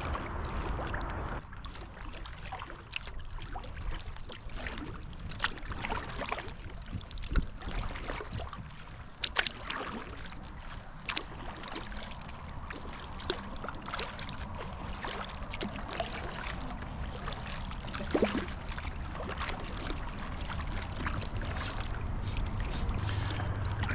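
Kayak paddling: water splashing and dripping off the paddle blades in irregular strokes, with a few louder splashes or knocks, over a low steady rumble.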